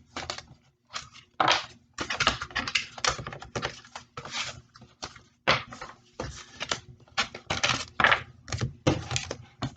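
Tarot cards being shuffled and handled by hand: a quick, irregular run of papery slaps and clicks.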